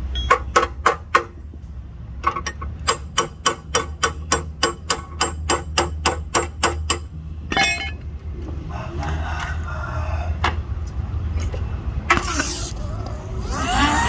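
Repair-shop tool work: a run of sharp, evenly spaced metallic clicks, about four a second, then a hiss and a loud rushing noise near the end, over a steady low hum.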